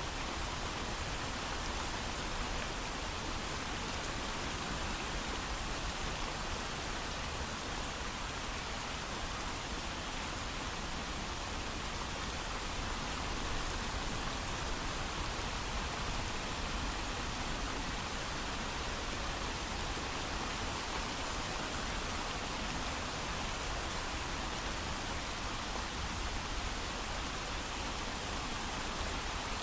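Steady heavy rain falling, a constant even hiss of drops with no thunder.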